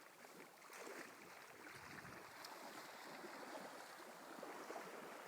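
A school of sockeye salmon scattering and breaking the river's surface: a dense, steady patter of many small splashes over moving water.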